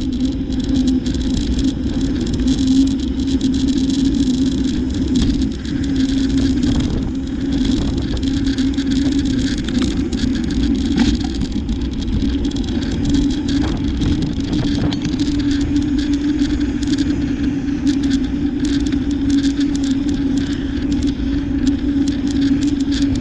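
Steady riding noise from a bicycle underway: a continuous hum with low rumble and noise, and many small rattling clicks.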